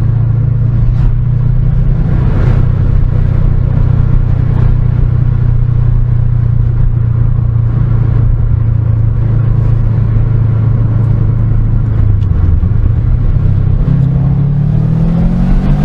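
Car engine running at a steady speed for about twelve seconds, then the note dips and rises again near the end as the engine picks up speed.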